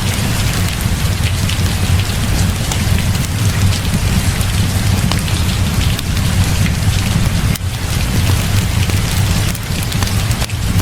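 Heavy rain falling steadily and densely, with a deep, steady low rumble underneath.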